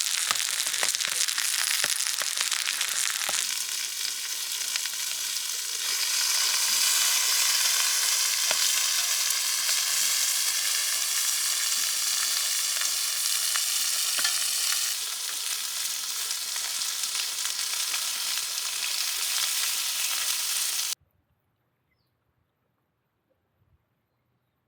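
Pork jowl (tontoro) sizzling and frying in a hot pan, a dense steady hiss that cuts off abruptly near the end and gives way to near silence.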